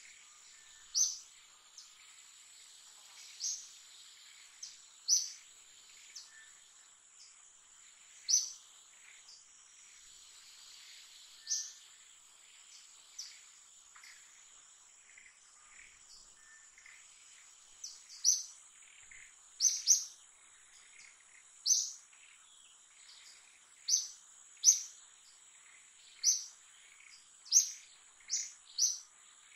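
Short, sharp high-pitched bird chirps, about twenty of them at irregular intervals and coming more often in the second half, over a steady high insect drone.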